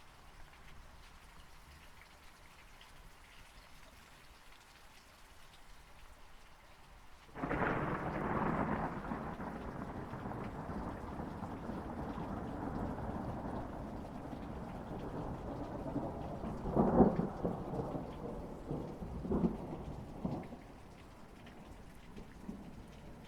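Rain falling steadily, with a thunderclap breaking suddenly about seven seconds in and rolling on for over ten seconds, swelling to two louder cracks before it dies away, leaving the rain again.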